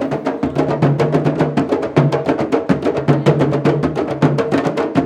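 Candombe drum ensemble playing a fast, dense rhythm: hand-and-stick strokes on the drumheads, sharp wooden clicks, and low drum tones ringing underneath.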